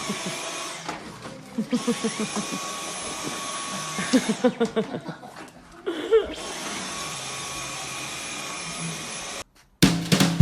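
A small motor hums steadily under three bursts of quick, repeated voice-like pulses. Near the end it cuts off and upbeat music starts.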